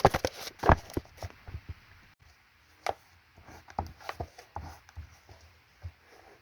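Irregular knocks and clicks of small objects being handled and set down on a desk: a quick cluster in the first second, then scattered single taps.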